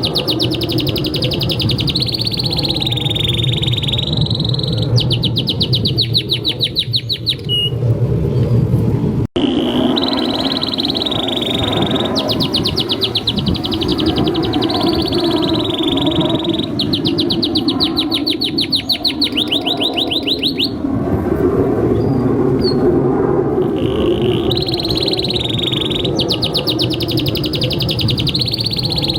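Male domestic canary singing continuously, with long phrases broken by rapid rolling trills of fast repeated notes, over a steady low background noise. The song breaks off for an instant about nine seconds in.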